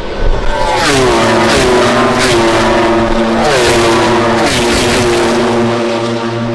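MotoGP racing motorcycles' engines screaming past at close range. Their pitch drops in quick steps several times as the riders downshift, with sharp cracks mixed in.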